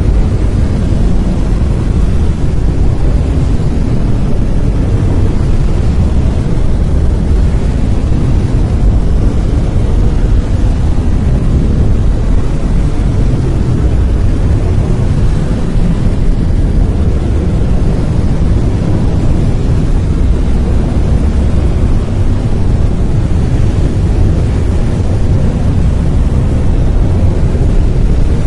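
Brown noise: a steady, deep rumbling hiss with most of its energy in the low end and little in the highs, unchanging throughout.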